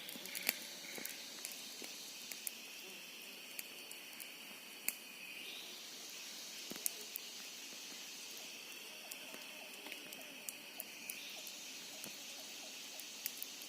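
Forest insect chorus: a steady, high-pitched buzzing drone that shifts slightly in pitch twice, with scattered sharp clicks.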